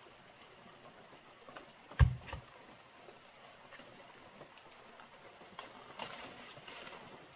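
A single heavy thud about two seconds in, then a few light knocks and a brief rustle near the end.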